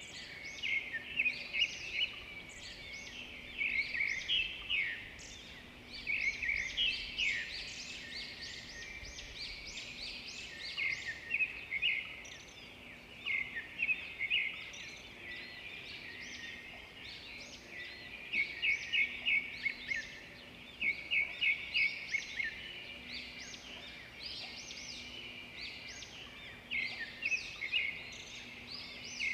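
A chorus of several birds chirping and singing at once, with many short notes and quick rattling trills overlapping throughout.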